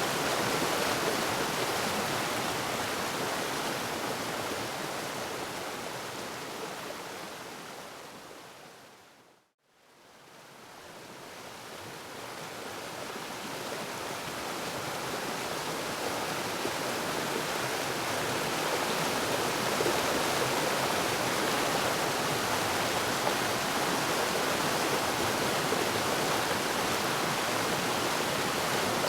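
Waterfall rushing steadily. About nine seconds in it fades out to a moment of silence, then gradually fades back up to its full steady level.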